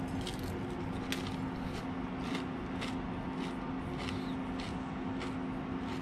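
Chewing a bite of fried rabbit nugget, with a soft crunch about every half second over a steady low hum.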